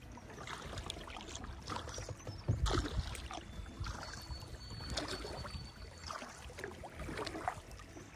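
Kayak paddle blades dipping and pulling through river water in a steady rhythm, a splashy stroke a little more than once a second.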